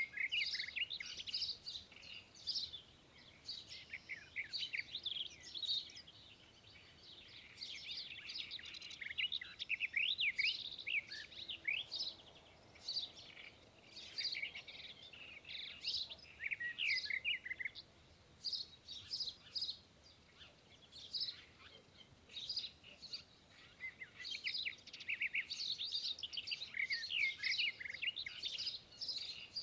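Small songbirds chirping and twittering: many short, high calls in quick, overlapping runs, with brief lulls between the busier stretches.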